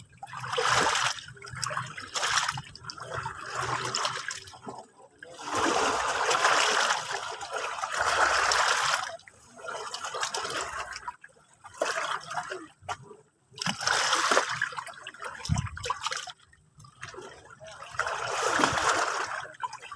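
Sea waves washing in, water noise that swells and fades in irregular surges every few seconds.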